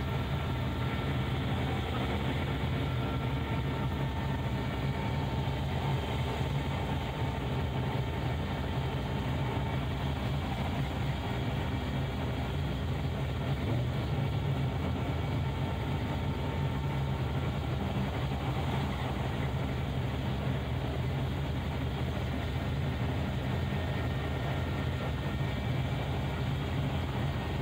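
Engine of a 1936 Nash street rod idling steadily, heard from inside the cabin.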